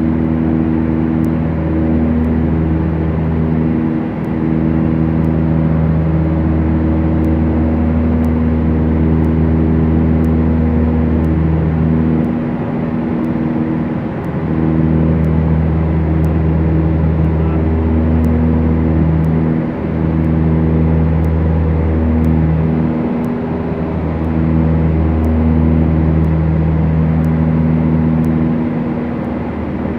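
Steady drone of a Beechcraft Duchess's twin four-cylinder piston engines and propellers, heard from the cockpit. The low tones dip and waver briefly every few seconds.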